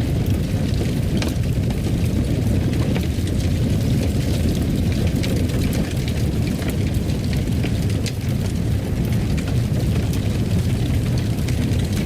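Wood fire in a fireplace: a steady low rumble of flames with irregular sharp crackles and pops scattered throughout.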